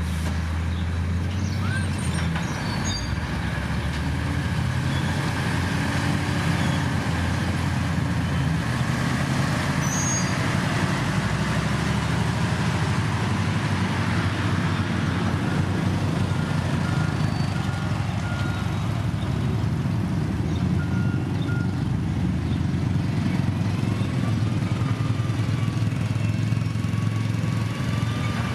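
Heavy diesel construction machinery, such as a motor grader or road roller, running steadily with a low engine rumble. A few faint short beeps sound about halfway through.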